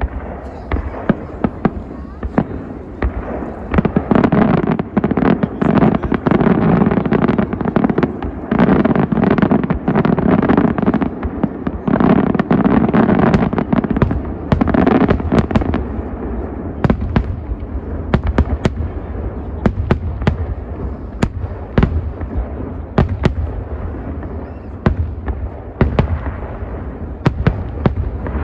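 Large fireworks display: a dense barrage of shell bursts and crackling, heaviest and loudest from about four seconds in to about fifteen, then thinning to scattered sharp bangs and crackles.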